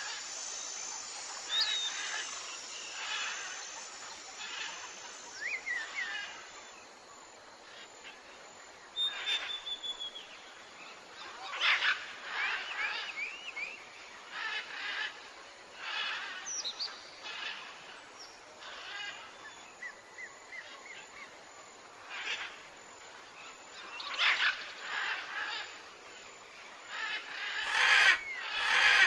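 Several wild birds calling outdoors: short chirps and whistled notes come every second or two, some sliding in pitch, with a quick run of notes about twelve seconds in.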